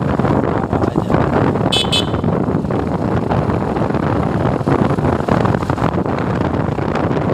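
Steady wind rush over the microphone of a moving motorcycle, with the road and engine noise underneath. About two seconds in come two quick, high-pitched beeps close together.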